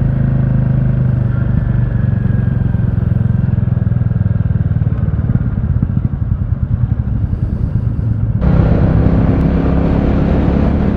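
Royal Enfield Classic 350's single-cylinder engine running steadily as the motorcycle rides along. About eight seconds in the sound changes abruptly, with a louder rushing noise added over the engine.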